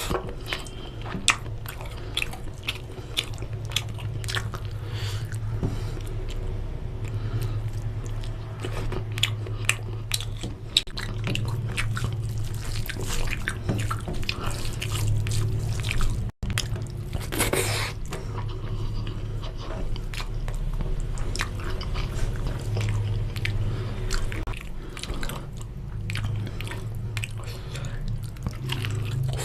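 Close-up chewing and biting of chicken curry and rice: irregular wet mouth clicks and smacks, over a steady low hum. The sound drops out for an instant about halfway.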